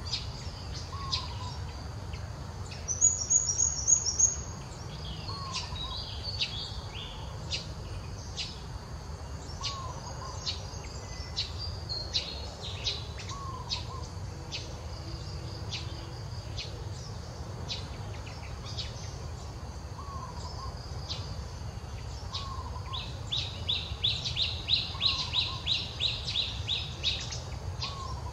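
Wild birds calling over a steady low background rumble: many short high chirps, a loud fast trill about three seconds in, and a rapid run of repeated notes near the end. A short lower call recurs every few seconds.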